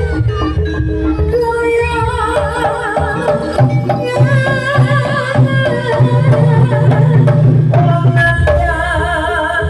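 Live jaranan (kuda lumping) ensemble music: a steady drum beat under a repeating melody, with singing.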